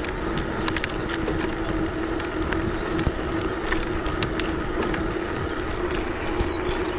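Bicycle rolling along a road: a steady rush of tyre and wind noise with a steady low hum and scattered light clicks.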